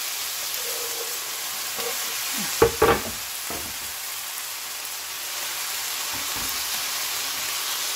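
Seaweed stems and onion sizzling steadily as they stir-fry in a nonstick wok, with two sharp knocks about two and a half seconds in.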